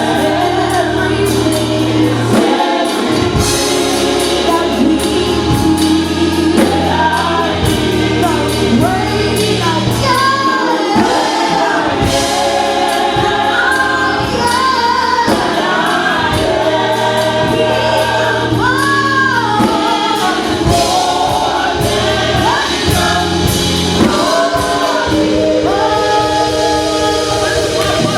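Gospel choir singing a worship song with instrumental accompaniment under it, including sustained bass notes.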